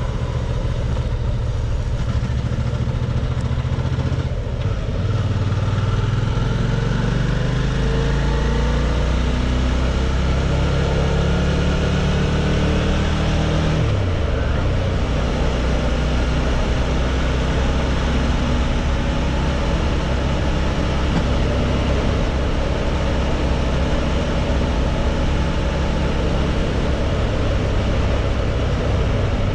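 Suzuki V-Strom 650's 645 cc V-twin engine pulling under way, with wind and road noise. Its pitch climbs steadily for several seconds, drops suddenly about fourteen seconds in as the rider shifts up, then holds steady at cruising speed.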